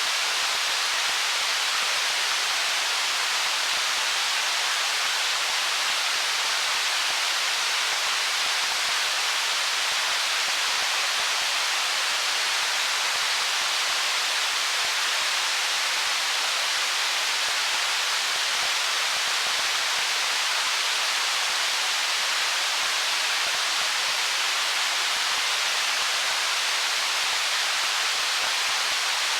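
Stream water running over stones, a steady even rush with no separate splashes, gurgles or changes.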